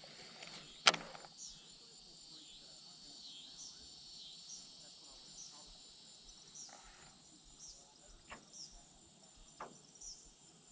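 Insects droning steadily with short high chirps repeating about once a second. A single sharp click comes about a second in, and a few faint knocks follow later.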